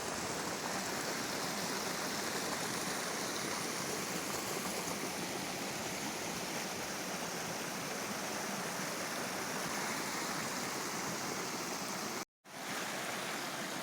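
River water flowing in a steady, even rush. The sound drops out completely for a moment near the end, then resumes.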